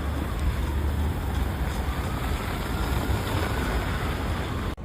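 A motor vehicle running with a steady low rumble and a broad road or snow noise over it, cut off abruptly near the end.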